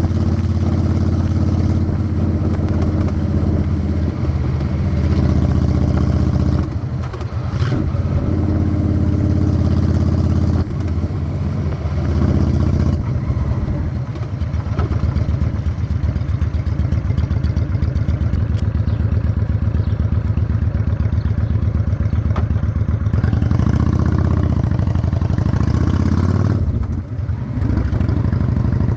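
Honda Shadow 600 V-twin chopper engine running while riding, the engine note throbbing steadily under throttle. It dips briefly a few times, about a quarter of the way in, again shortly after, and near the end, as the throttle is closed for a moment.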